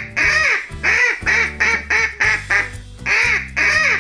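Duck quacking in a fast run of short quacks, with a brief pause a little before three seconds in, over steady background music.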